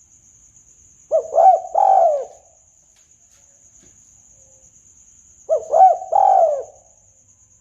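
Spotted dove cooing, used as a hunting lure call: two phrases about four seconds apart, each a couple of short coos followed by a longer falling coo. A faint steady high whine runs underneath.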